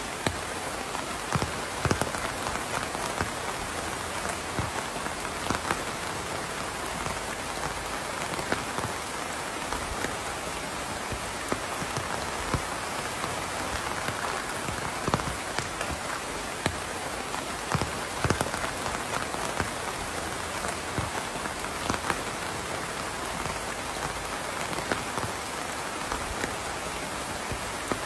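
Steady rain falling and pattering on a surface, with frequent individual drops landing close by as distinct taps.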